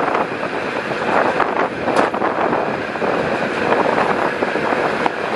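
A moving passenger train heard from inside the carriage: a steady rushing running noise with scattered sharp clicks and knocks, a louder one about two seconds in.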